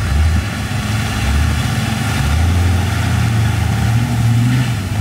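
Off-road 4x4 vehicle's engine running under throttle as it drives through, its low engine note rising about a second in and again near two seconds, then holding.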